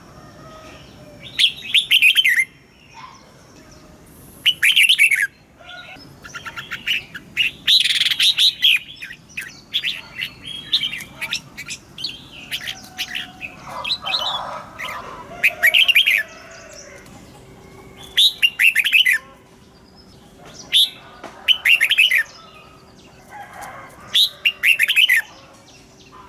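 Red-whiskered bulbul singing: short, bright whistled phrases repeated every couple of seconds.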